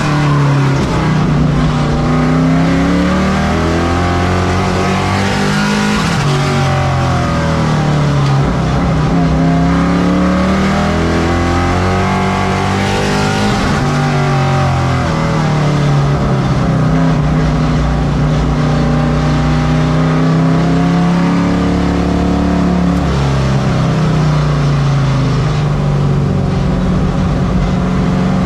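Race truck engine running at race pace on a short oval. The revs climb steadily on each straight and drop as it lifts for the turns, repeating about every seven seconds.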